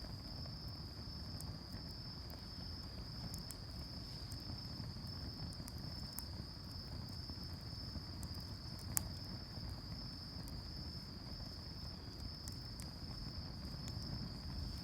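Crickets singing in a steady, unbroken high trill, with sparse sharp pops from a wood campfire crackling; one louder pop about nine seconds in.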